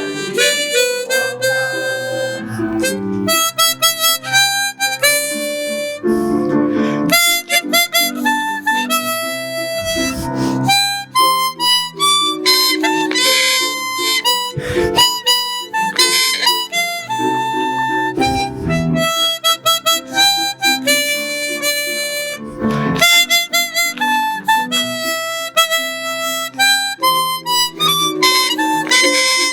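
Harmonica playing a lively melody over strummed acoustic guitar chords, an instrumental break in a festa junina song.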